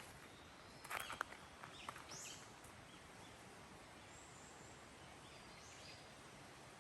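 Faint outdoor ambience: a steady soft hiss with a few short, high bird chirps, most of them in the first half. A few sharp clicks come about a second in.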